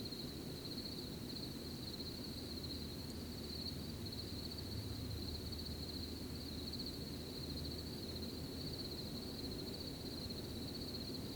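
Crickets trilling in one steady, high, finely pulsing chorus, over a low steady rumble of background noise.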